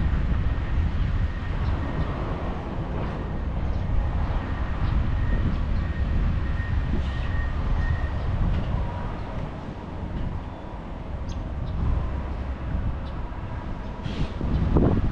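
Detroit DD13 diesel engine of a heavy truck running with a steady low rumble.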